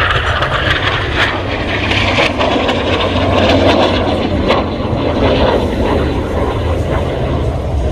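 Jet noise from Canadair NF-5 fighters flying past in a display, a dense roar that swells to its loudest about halfway through and then eases slightly.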